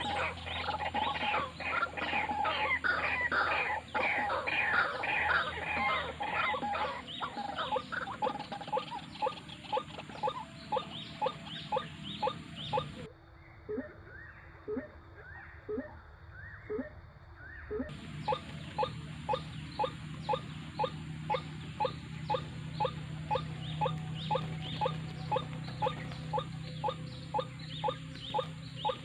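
White-breasted waterhens calling: a long run of short, repeated croaking calls, crowded and overlapping at first, then an even series of about two calls a second.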